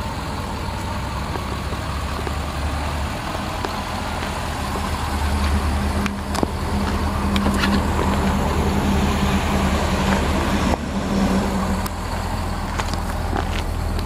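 2005 Chevrolet Corvette C6's 6.0-litre LS2 V8 idling steadily, with a few light clicks.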